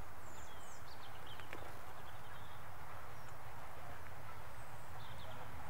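Small birds chirping in short gliding calls, a cluster in the first second or so and again near the end, over a steady low rumble.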